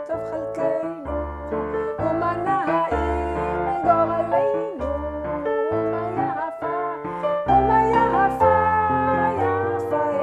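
A woman singing a slow Chabad nigun over keyboard accompaniment, with held chords and bass notes changing about every second.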